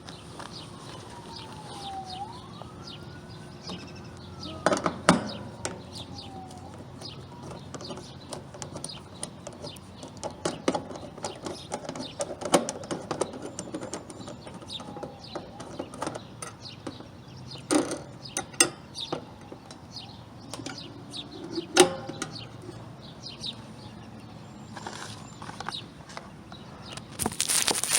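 A distant siren wails, its pitch falling, rising and falling again over the first several seconds, over a steady low hum. Scattered sharp clicks and knocks follow.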